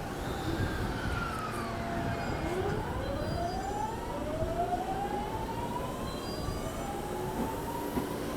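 Electric train's traction motors whining, rising steadily in pitch as the train pulls away and gathers speed, over a steady rumble of the running train.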